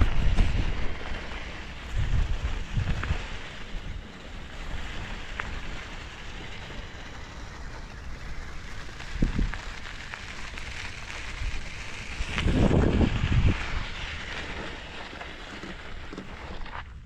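Mountain bike rolling along a dirt trail, a steady rough hiss of tyres and riding noise. Wind buffets the microphone in low gusts at the start, around two to three seconds in, at about nine seconds and longest around twelve to thirteen seconds.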